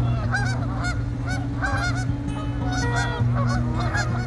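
A large flock of Canada geese honking, many short calls overlapping in a continuous chorus.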